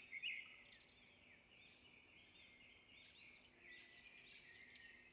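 Faint birdsong: small birds chirping in quick, arching notes that grow busier in the second half.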